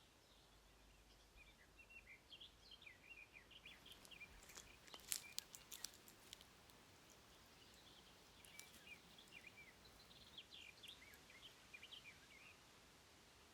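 Faint birdsong, many short chirps and twitters, with a quick run of sharp light clicks or taps about halfway through.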